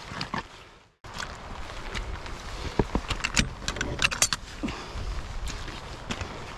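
Gear being handled: irregular sharp clicks and knocks with a light jingle, over a steady outdoor hiss. The sound drops out briefly about a second in.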